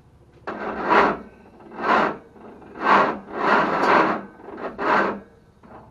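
Singer Gazelle's newly built engine being cranked on the starter in short raspy bursts, about one a second, without catching: a first start that the crew put down to too much ignition advance.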